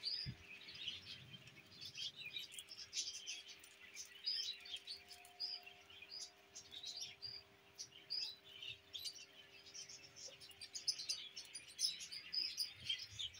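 Small birds chirping and twittering in quick, irregular high calls, thickly and without a break, over a faint steady hum.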